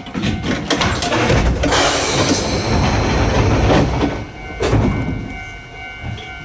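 Narrow-gauge Hokusei Line electric train running on the rails: sharp clicks over rail joints, then a louder rush of running noise for a couple of seconds that eases off near the end.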